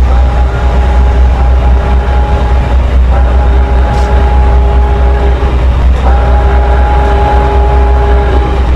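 Train running close by: a heavy steady rumble with steady whining tones over it, which drop out briefly about three and six seconds in and come back.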